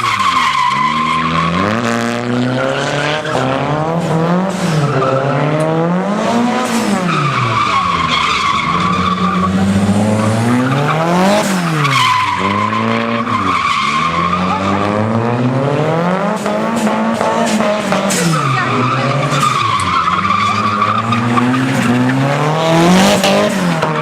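Car engine revving hard up and down over and over while the tires squeal steadily: a car doing a burnout with its rear tires spinning and sliding.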